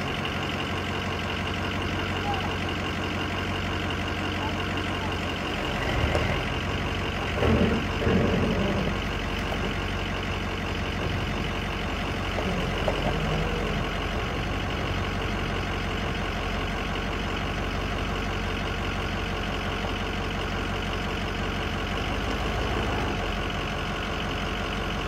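Ford F350 dually pickup's engine idling steadily, with a few louder knocks and rattles about six to nine seconds in.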